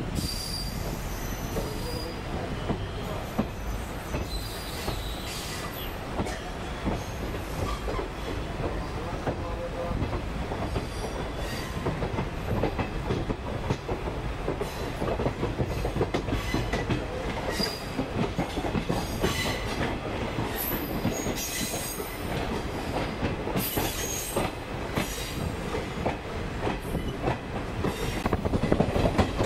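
An Indian Railways passenger train running over the rails, heard from aboard the coach: a steady rumble of wheels with many clicks over rail joints and points, brief high wheel squeals, and a rise in loudness near the end.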